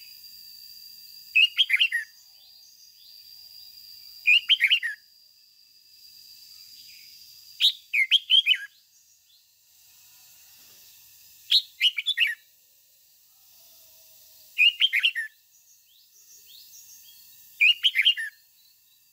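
Red-whiskered bulbul singing: six short, loud, warbling song phrases, one about every three seconds. A faint steady high tone runs under the first few phrases and stops about halfway through.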